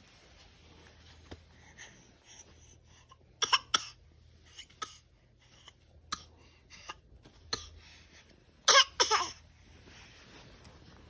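A baby's voice in two short bursts, about three and a half seconds in and again near nine seconds, with small clicks and rustles in between over a faint steady low hum.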